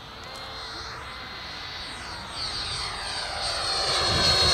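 RC model airplane's engine and propeller running in flight, getting steadily louder as the plane approaches.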